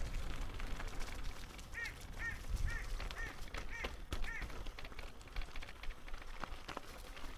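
A bird gives six short, harsh, arched calls in a quick series, about two a second, over a low rumble with scattered sharp taps.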